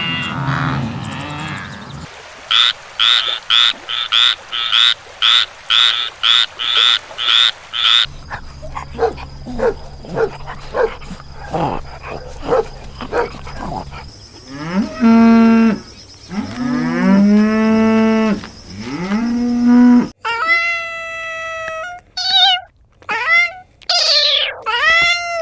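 A succession of different farm-animal calls, cut from clip to clip. It opens with short calls repeated about twice a second, then a run of faint pulses, then long low calls that glide up and down, and then higher calls near the end.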